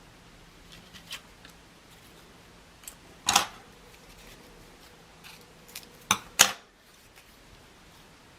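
Scissors cutting paper: a few short snips, a loud one about three seconds in and a close pair of loud snips about six seconds in.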